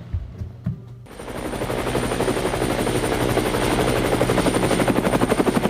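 A rapid, steady fluttering whir, like a helicopter rotor, swells in about a second in and keeps going loud, pulsing several times a second with a thin high whine on top.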